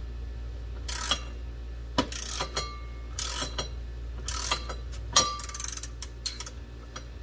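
Hand ratchet wrench clicking in short runs of strokes, with metal clinks, as a bolt is turned by hand.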